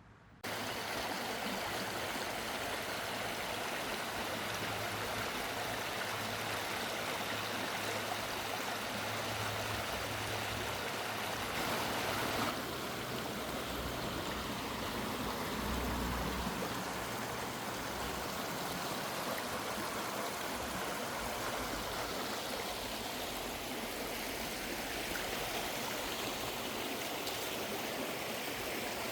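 Creek water rushing steadily, cutting in suddenly about half a second in.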